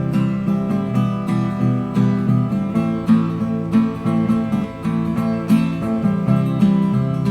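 Acoustic guitar strumming and picking a steady chord pattern: the instrumental outro of an acoustic song.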